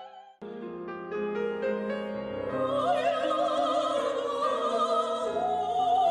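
Concert performance of an old romance: instrumental accompaniment plays sustained notes, then about three seconds in a high woman's voice enters, singing in classical style with strong vibrato.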